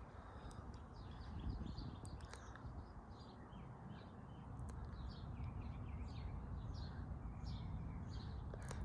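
Small birds chirping over and over in the background, over a steady low rumble, with a few faint clicks.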